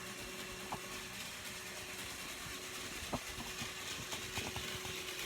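HO-scale model locomotive's small electric motor running steadily at full throttle while its wheels spin in place on the track, stalled and unable to push its coaches up the incline. A few light clicks.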